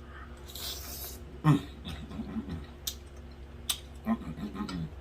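A man eating chitterlings: chewing with wet lip smacks and clicks, and low humming "mmm" moans of enjoyment, several times.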